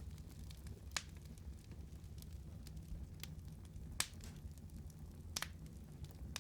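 Wood fire burning: a steady low rumble with a few sharp crackling pops from the burning wood, the loudest about four seconds in.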